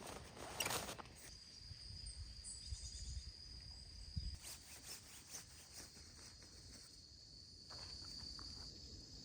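An insect's steady, thin, high trill starts about a second in and carries on over quiet outdoor background. A few soft rustling steps sound near the start and again around the middle.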